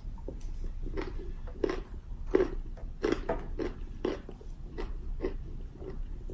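Close-up chewing of a big piece of broccoli: a run of crisp crunches, about two a second.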